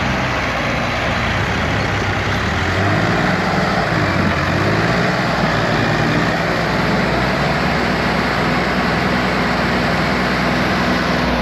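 Diesel tractor engines running hard under load in a tractor tug-of-war, with a steady loud rumble whose pitch sags and recovers a little partway through.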